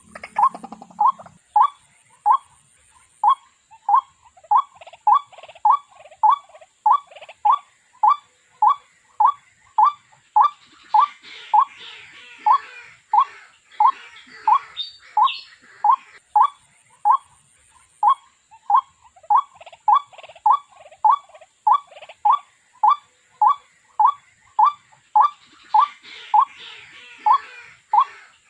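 Water hen calling, a short note repeated monotonously about twice a second. A busier, higher-pitched chattering joins in the background at times.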